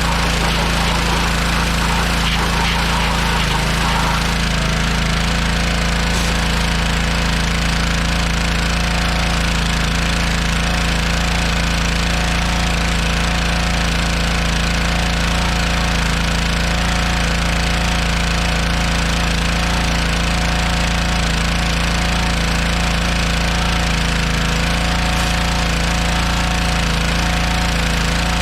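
Pressure washer running steadily, its motor and pump going without a break while it sprays water to clean an engine.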